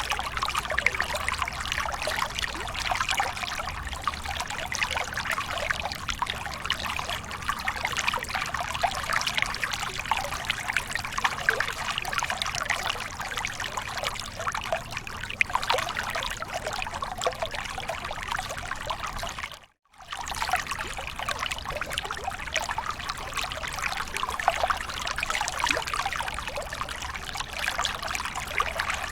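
Small waterfall pouring and splashing steadily. The sound cuts out completely for a split second about two-thirds of the way through, then resumes.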